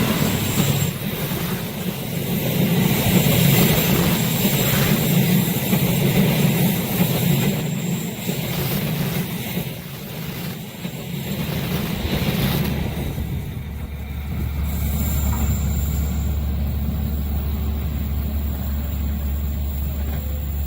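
Train passing: a steady rumble with a hiss of wheels on rails. About twelve seconds in, it changes suddenly to a steady low hum.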